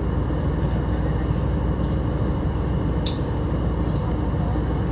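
A train running at speed, heard from inside the passenger car: a steady rumble of wheels on the rails with a faint constant hum, a few light ticks, and one sharper click about three seconds in.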